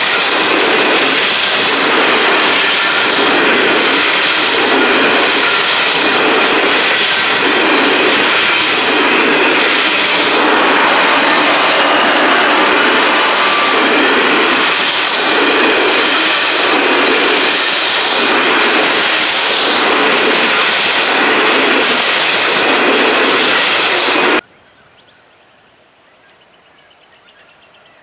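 Coal hopper wagons of a narrow-gauge coal train rolling past close by: a loud, steady rumble and rail noise with a regular beat as the wheels pass. It cuts off suddenly near the end.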